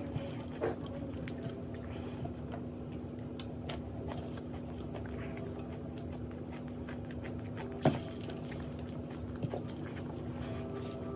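A person chewing food close to the microphone, with soft scattered mouth clicks and one sharper click about eight seconds in, over a steady low hum.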